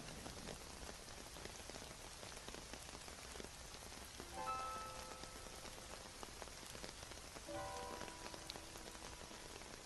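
Steady rain falling on a surface, an even hiss with scattered drops. Faint held notes of soft music sound about halfway through and again near the end.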